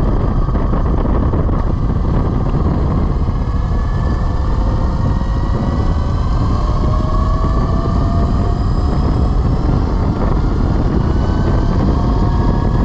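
Velimotors VMX12-F electric motorcycle under way: the motor and drivetrain whine climbs slowly in pitch as the bike picks up speed, over a steady low rush of wind and road noise.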